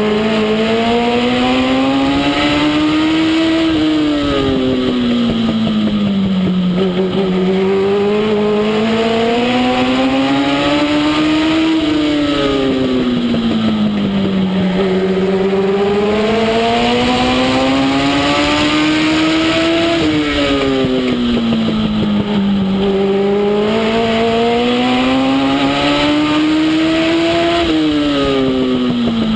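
Legend car's Yamaha four-cylinder motorcycle engine racing. The pitch climbs for about four seconds and then drops off quickly, about every eight seconds, as the car accelerates down the straights and lifts off for the turns, lap after lap.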